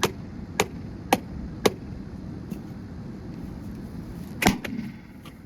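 Sharp blows on the metal-and-plastic body of a Rival microwave oven being smashed apart. Four quick hits come about half a second apart, then a lighter one, then a louder hit about four and a half seconds in that rings briefly.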